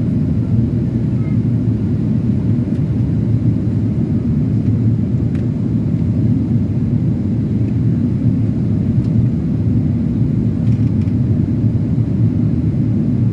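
Steady low rumble inside the cabin of a Boeing 737-800 airliner: engine and airflow noise, even throughout, with a few faint ticks.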